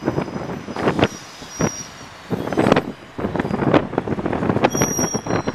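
Diesel multiple-unit commuter train rolling slowly into a station platform and braking: an uneven rumble with a brief high brake squeal near the end.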